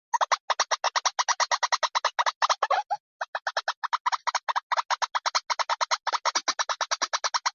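White-breasted waterhen call played as a trapping lure: a rapid, even run of short harsh notes, about eight a second, breaking off briefly about three seconds in.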